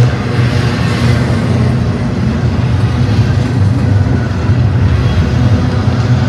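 Double-stack intermodal freight train's container well cars rolling past: a steady low rumble of steel wheels on rail.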